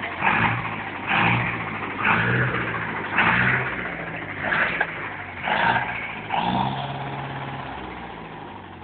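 Forestry tractor engine running, with a louder surge about once a second, like short repeated revs; it grows gradually quieter toward the end.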